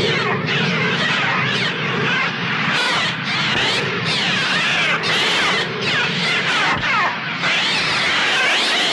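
Dense, overlapping screeching bird cries, many falling and rising shrieks at once like a large flock, as a film sound effect.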